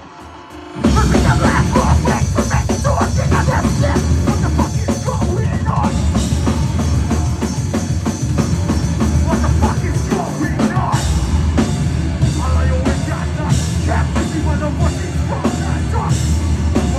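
Heavy rock band playing live. After a quieter guitar passage, the full band with drums and distorted guitars crashes in loudly about a second in and keeps playing.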